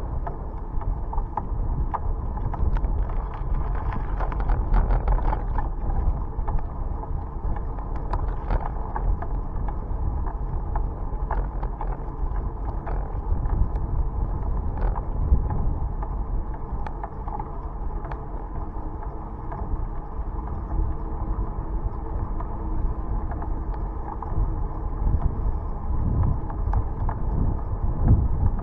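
Bicycle riding noise: wind buffeting the microphone over tyre rumble on the road, with scattered small rattles and clicks from the bike.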